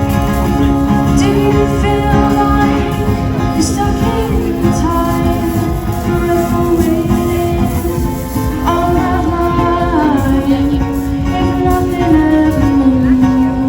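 Live music: a singer performing a song over guitar accompaniment, the melody stepping up and down.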